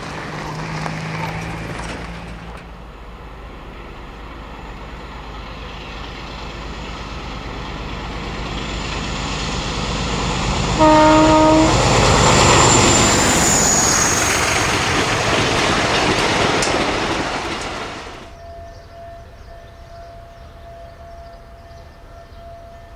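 A freight train approaching and passing, its rumble swelling steadily, with one short blast of the locomotive horn about halfway through. The train noise cuts off suddenly near the end, leaving a faint steady tone.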